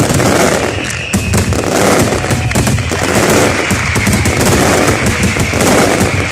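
Fireworks going off in a rapid, unbroken barrage of overlapping bangs and crackles.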